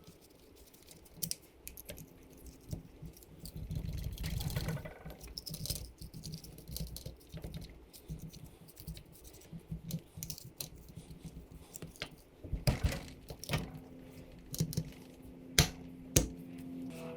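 Metal tools and parts clinking and knocking on a workbench, with a short stretch of scrubbing about four seconds in, during hand work on a motorcycle engine.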